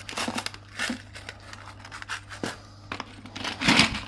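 Hands rummaging through a drawer of loose screws and small hardware: scattered clicks, scrapes and rattles, loudest about three and a half seconds in.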